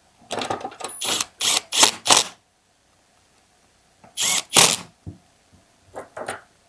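Plastic clicking and clattering of the chainsaw's handle and throttle-trigger parts being worked and fitted by hand, in a cluster of short bursts, a second group about four seconds in and a smaller pair near the end.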